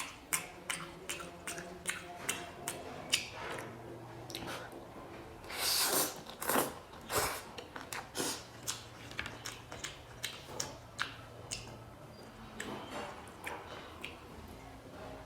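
A person eating spicy instant noodles close to the microphone: wet chewing with many sharp mouth clicks, and a longer, louder slurp about six seconds in.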